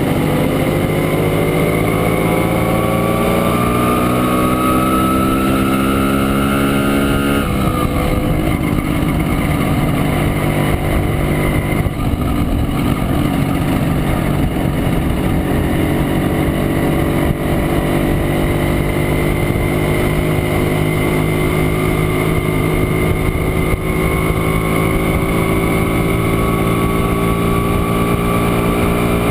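Montesa Impala Comando 175's two-stroke single-cylinder engine pulling on the road, its pitch rising for about seven seconds. The pitch falls abruptly, then the engine runs on steadily, slowly climbing again.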